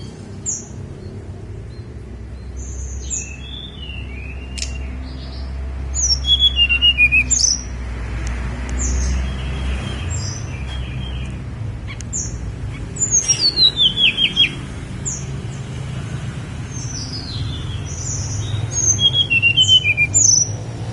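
Tledekan gunung songbird singing: bursts of high, thin whistled notes and quick descending trills, repeated several times. A steady low hum runs underneath.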